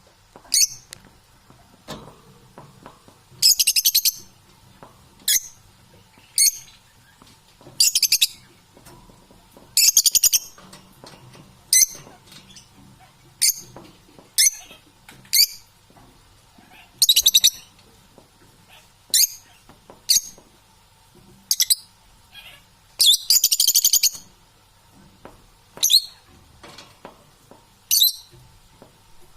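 Pet parrots calling: short, shrill squawks and chirps repeated every second or two, with a few longer harsh calls lasting about a second.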